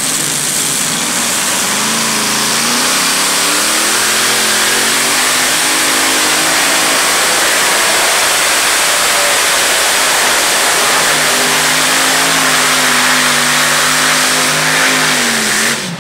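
Single-engine modified pulling tractor running at full throttle through a pull, loud. The engine pitch climbs over the first few seconds, sags, then holds steady before dropping sharply near the end as the throttle is cut.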